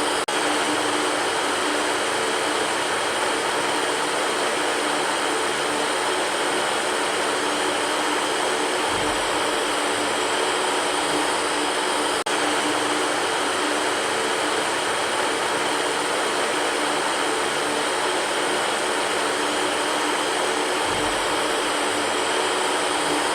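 Electric fan running steadily: an even rushing whoosh with a faint steady motor hum beneath it and a momentary break about twelve seconds in.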